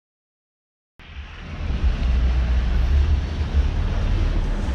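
Wind buffeting the microphone, a loud gusting rumble that cuts in suddenly about a second in after silence.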